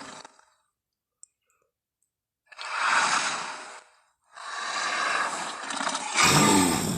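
Male Tyrannosaurus rex film sound effects: after a short silence, a roar of about a second and a half, then a longer roar from about four seconds in that grows louder and deeper near the end.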